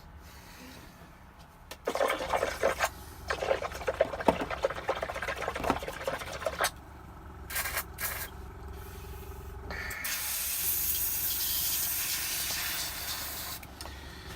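Airbrush spraying matte varnish in bursts: a spattery, crackling spray from about two seconds in for some five seconds, two short puffs, then a smooth steady hiss for about four seconds. A faint steady hum sits underneath in the second half.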